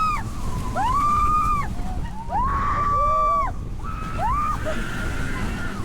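Riders on a roller coaster screaming in repeated high, rising-then-falling cries, about one every second or so, over a steady rush of wind buffeting the microphone as the train moves.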